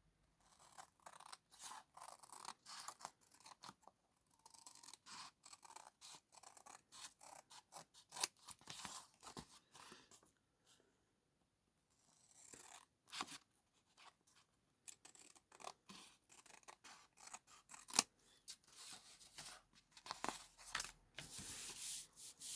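Scissors cutting paper, a long run of quick snips with a pause of about two seconds partway through.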